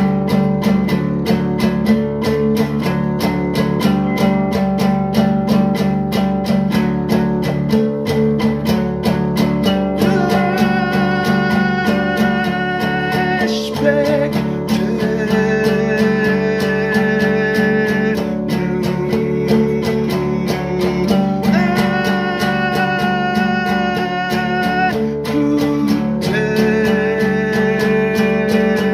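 Acoustic guitar strummed in a steady rhythm as the introduction and accompaniment of a song, with a voice singing along from about ten seconds in.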